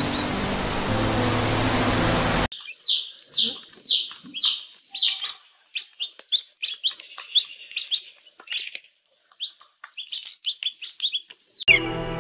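Background music, then, about two and a half seconds in, a bird chirping: a long run of short, high calls, several a second. The music comes back near the end.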